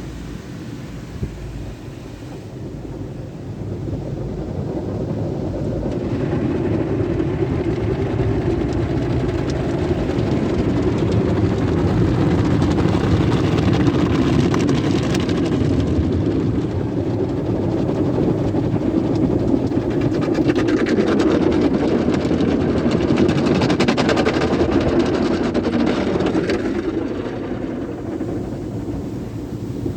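Sonny's car wash tunnel equipment working over a car, heard from inside the car: a steady rushing and spattering of water and machinery that swells louder a few seconds in and eases off near the end.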